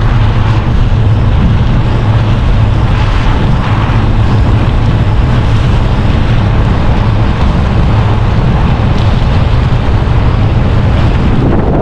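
Steady, loud rumble of a bicycle riding over winter roads: wind buffeting the microphone over the constant low drone of the tyres.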